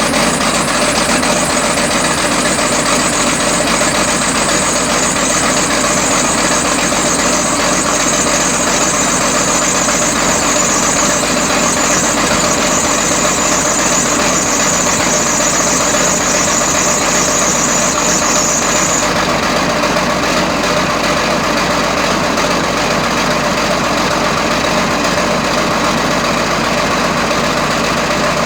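Logging machine's engine idling steadily after a cold start in about 14-degree weather, with a high whine over it that cuts off about two-thirds of the way through.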